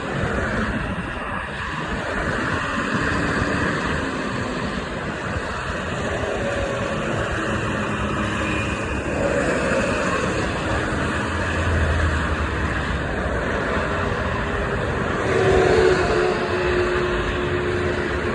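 Road traffic: steady engine and tyre noise from passing vehicles, with a few engine tones rising and falling as vehicles go by.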